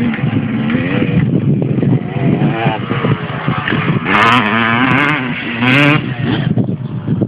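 Motocross motorcycle engines running and revving, their pitch rising and falling and wavering repeatedly.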